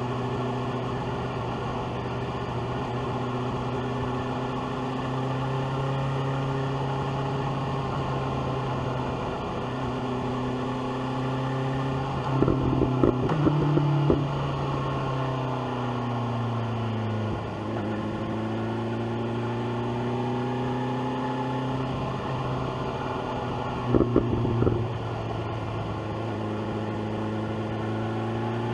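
BMW S1000R's inline-four engine with an SC-Project exhaust, heard from the rider's seat, running under varying throttle as the revs rise and fall through the bends. Two short, loud rattly spells stand out, about twelve seconds in and again near twenty-four seconds.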